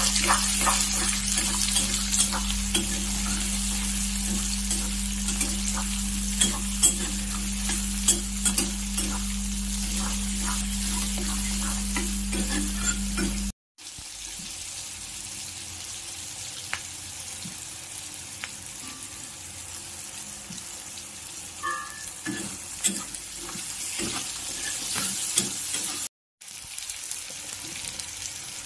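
Onions, green capsicum and dried red chillies sizzling in hot oil in a wok, with a spatula clicking and scraping against the pan as they are stirred. A steady low hum runs under the first half. The sound cuts off abruptly about halfway and comes back quieter, with another brief cut near the end.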